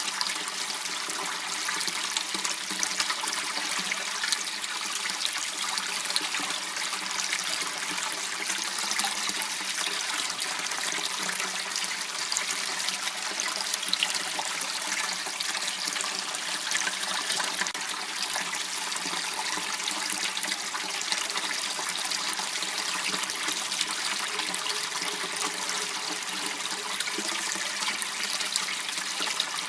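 Water running steadily in a small waterway, an even trickling rush that does not change.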